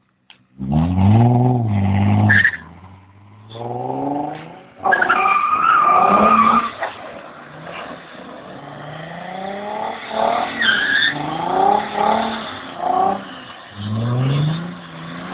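Nissan 300ZX's V6 engine revving hard in repeated bursts as the car is drifted on wet pavement, with a high steady whine during one long burst and a quick run of short rev rises toward the end.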